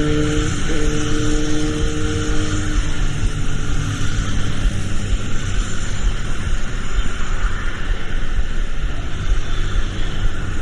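Rain and road traffic: a dense, steady hiss with the hum of a vehicle engine, whose steady tone fades out after about two and a half seconds.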